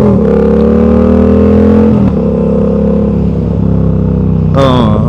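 Motorcycle engine pulling under acceleration, its pitch rising steadily, then dropping sharply about two seconds in as the rider shifts up, and running steadily after that.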